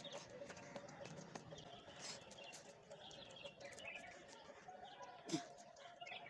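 Faint chirping of small birds, with soft taps and scuffs and one short louder sound with a falling pitch about five seconds in.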